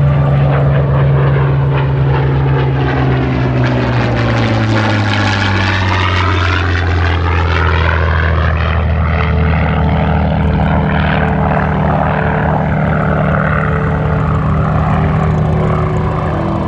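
Rolls-Royce Merlin V12 of a Supermarine Spitfire flying past. Its engine note drops in pitch about four to six seconds in as it passes, then holds steady.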